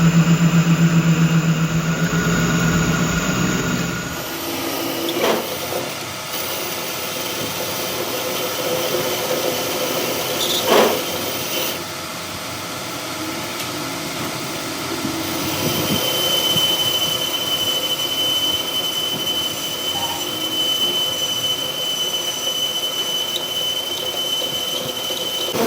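Machine-shop work on a truck drive shaft: a motor hums steadily for the first few seconds, then a noisy mechanical running sound with two sharp knocks, and a steady high-pitched squeal sets in about halfway and holds.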